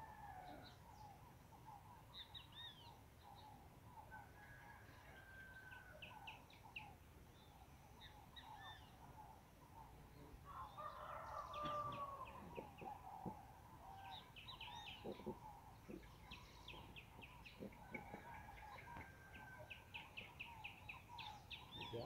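Faint mixed birdsong: several birds chirping and trilling, with a longer, louder call about eleven seconds in and a fast run of short repeated notes near the end.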